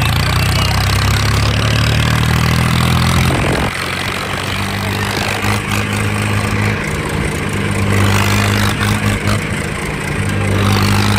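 Swaraj tractor's diesel engine running steadily and loud, with a brief dip about three and a half seconds in.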